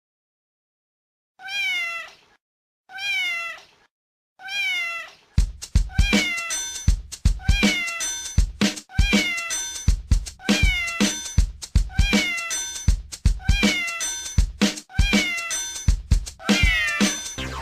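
Three cat meows, each rising and falling in pitch, about a second apart. About five seconds in, music with a steady thumping beat starts, built from meows repeated in time with the beat.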